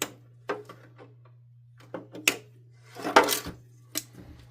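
A series of sharp clicks, snips and plastic clatters, with a longer busy stretch about three seconds in, as the Hoover Dimension 1000's dust sensor is cut out of the canister.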